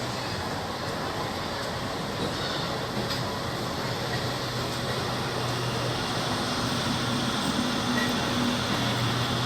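Steady rumble of a train running on the line, with a low steady hum coming in about halfway through.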